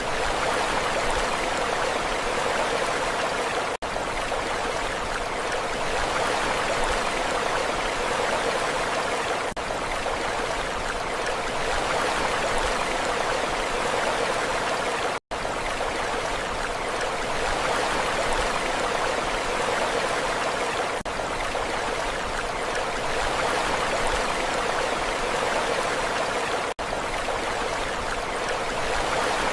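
Steady, even rush of water with no rise and fall of breaking waves. It dips briefly about every eleven seconds, and cuts out completely for an instant near the middle.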